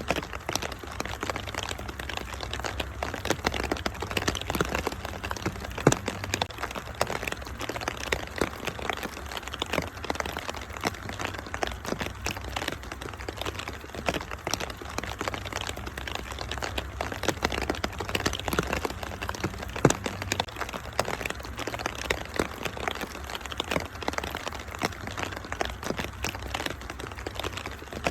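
Wood fire crackling with a constant run of sharp pops, two louder ones about 6 and 20 seconds in, over a steady hiss of falling rain.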